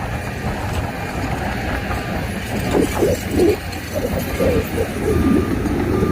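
Heavy earthmoving machinery running: a steady low engine rumble, joined from about three seconds in by a wavering squeal that rises and falls in pitch.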